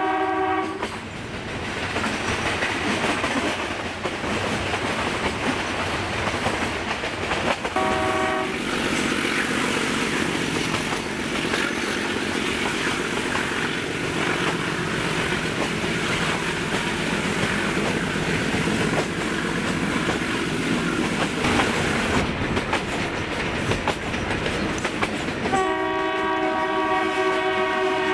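Metre-gauge passenger train running steadily, wheels clattering on the track, with the YDM4 diesel locomotive's horn sounding three times: briefly at the start, a short toot about eight seconds in, and a long blast near the end.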